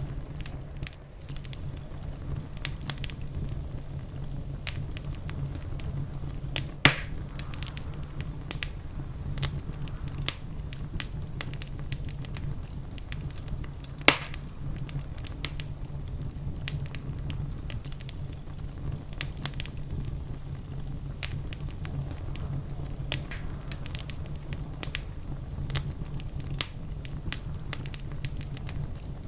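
Wood fire in a fireplace crackling: many small sharp clicks and snaps over a steady low rumble, with two much louder pops, about seven and fourteen seconds in.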